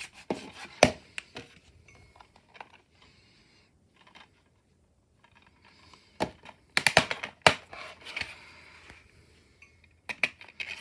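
Plastic DVD case being handled and opened: scattered sharp clicks and snaps, with a dense run of loud clicks about seven seconds in, followed by a soft rustling.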